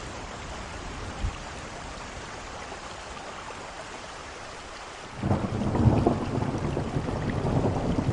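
Steady heavy rain, then about five seconds in a loud thunderclap breaks and keeps rumbling and crackling.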